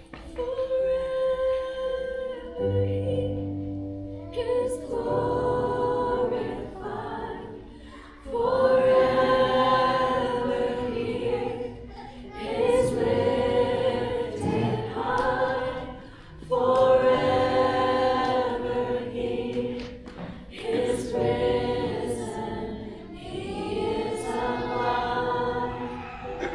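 A worship team and congregation singing a gospel praise song together, in long held phrases with short breaths between them.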